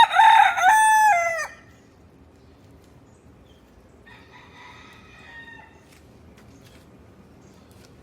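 Rooster crowing loudly, the crow ending about a second and a half in. A second, fainter crow follows about four seconds in.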